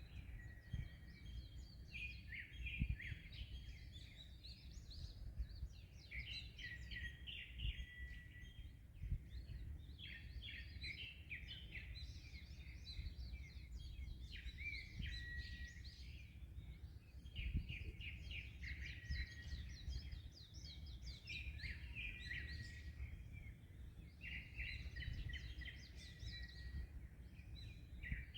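Many small birds chirping and singing continuously in overlapping trills and short calls, over a low steady rumble of wind and waves with a few stronger gusts.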